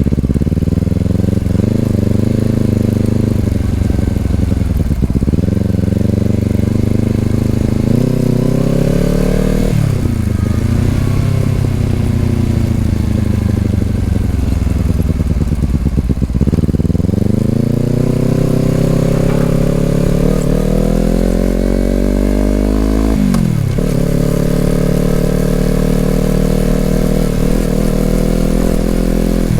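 Honda CBR250RR's parallel-twin engine through an Over Racing aftermarket exhaust, pulling through the gears: the revs climb and drop sharply at each upshift, three times, with a long spell of easing off and building again in the middle.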